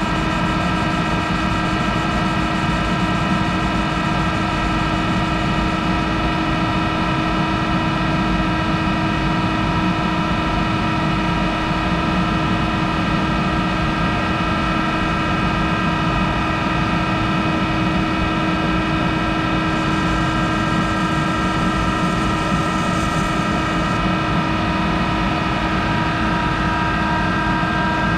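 Monarch 10EE lathe running steadily, with a constant multi-tone whine over a mechanical hum.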